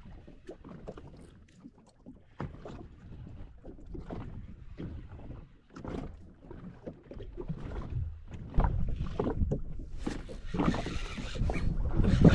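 Water slapping irregularly against a jet ski's hull at sea, with wind on the microphone. Both grow louder over the last few seconds.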